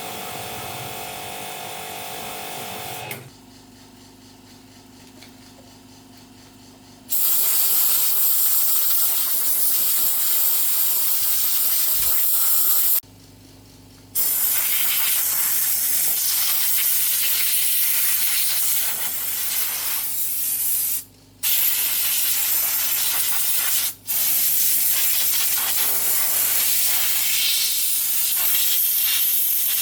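A small power tool whirs and stops about three seconds in. From about seven seconds a loud, steady hiss of compressed air runs in long bursts, with three short breaks.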